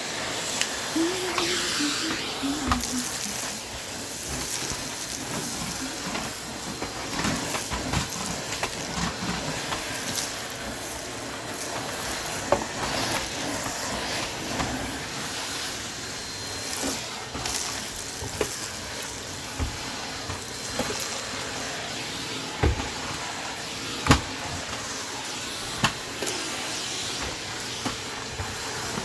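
Vacuum cleaner running steadily, a hissing rush of air with a faint steady hum, broken by scattered sharp clicks and knocks.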